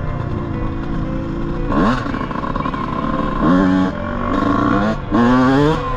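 A small off-road engine runs steadily and is revved up sharply three times in short bursts, about every second and a half.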